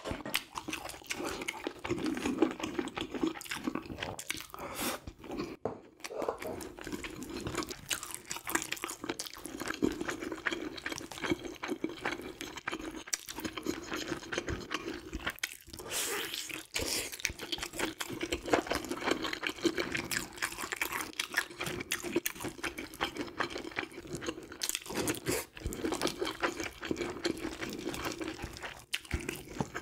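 Close-miked eating sounds: chewing and crunching food, with dense, irregular clicking and crackling throughout, mixed with chopsticks and fingers picking apart grilled fish.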